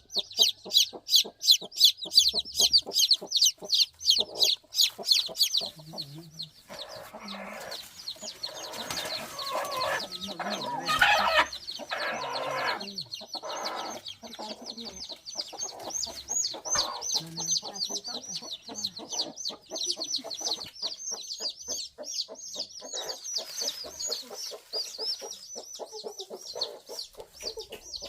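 Chickens clucking, with a rapid stream of high-pitched cheeping calls that is loudest for the first several seconds and then carries on more softly.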